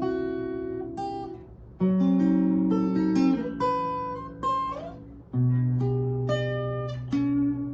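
Guitar played without singing: chords struck and left to ring out, with a few single notes and a short slide between them.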